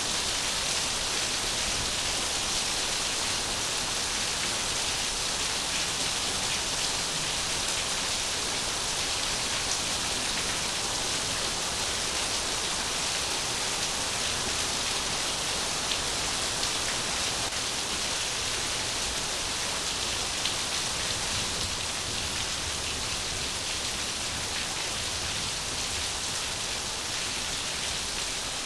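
Heavy rain falling steadily, an even dense hiss of drops with no thunder in this stretch.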